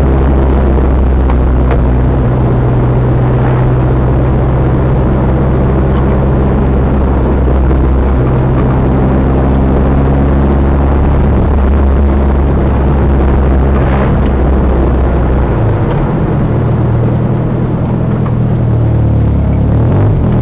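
Toyota Celica ST165 GT-Four Group N rally car's turbocharged four-cylinder engine heard from inside the cabin, driven gently at low revs. The engine note holds steady, then shifts pitch several times as the revs change.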